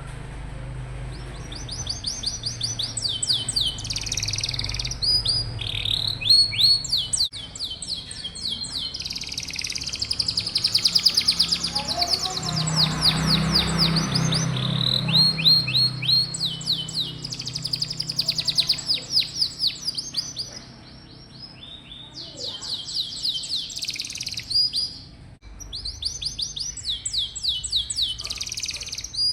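Domestic canary singing a long, varied song of rapid trills and rolls, each phrase a fast run of repeated notes, with brief lulls about two-thirds of the way through.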